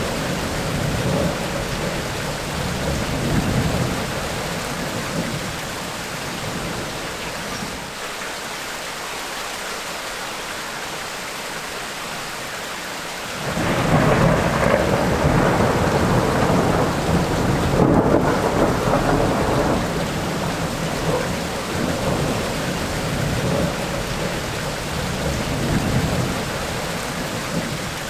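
Thunderstorm: rain falling steadily with rolling thunder. A loud rumble of thunder breaks in suddenly about halfway through and slowly dies away.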